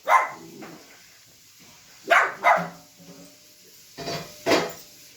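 A dog barking: one bark near the start, then two quick pairs of barks about two seconds apart.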